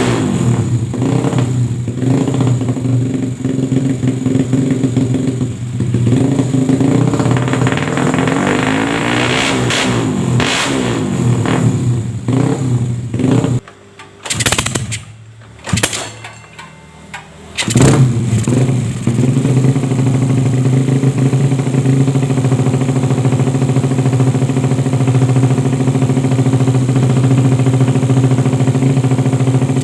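Honda Astrea Grand motorcycle engine, built up with a Yamaha V-Ixion piston, cylinder and head, running and being blipped up and down. About fourteen seconds in it drops away for a few seconds with a couple of short blips, then comes back sharply and runs steadily.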